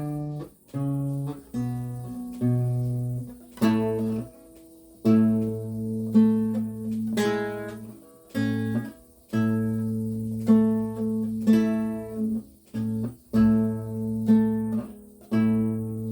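Solo Renaissance lute playing: plucked chords over ringing bass notes, struck about once a second.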